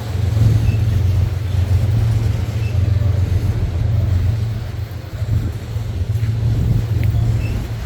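CSX freight train rolling past with a steady low rumble.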